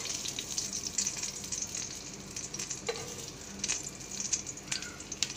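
Chicken kebabs shallow-frying in oil in a pan: a steady sizzle with a few sharp crackles scattered through.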